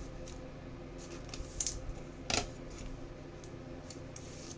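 Trading cards being handled: a few short clicks and rustles of card stock, the sharpest about two seconds in, over a low steady hum.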